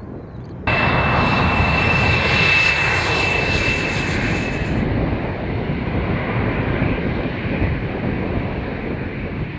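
Airbus A310 jet engines running loud, with a steady high whine over a deep rumble, cutting in abruptly about a second in and easing off slowly.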